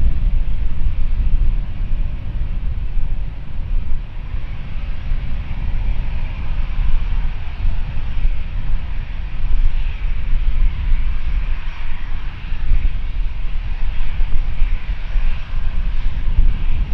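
Jet airliner engines: a heavy low rumble, with a rushing hiss that grows louder about ten seconds in as the aircraft passes.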